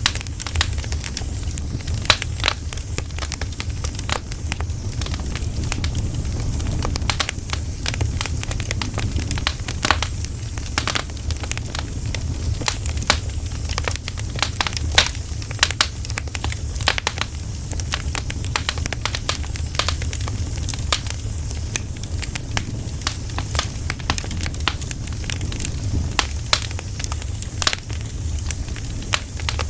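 Wood fire crackling and popping: many sharp, irregular snaps over a steady low rumble.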